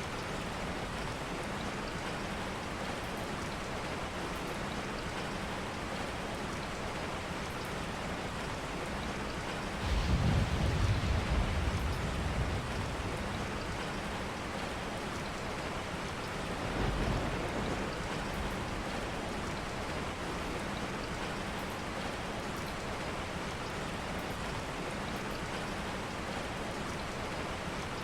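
Steady rain with two low rumbles of thunder: a louder one about ten seconds in that lasts a few seconds, and a shorter, fainter one about seventeen seconds in.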